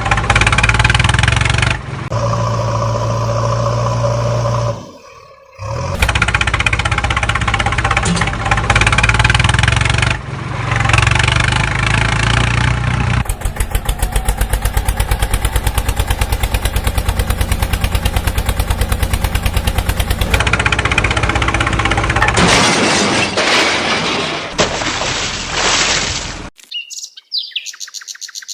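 A string of vehicle engine sounds cut together, switching abruptly every few seconds, with a rapid, even chugging for several seconds midway. Near the end it gives way to bird chirps.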